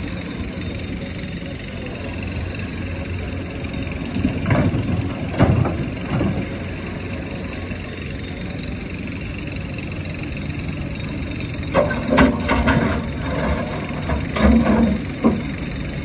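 Excavator diesel engine running steadily, with two spells of knocks and clatter, about four seconds in and again about twelve seconds in, as the bucket works rock.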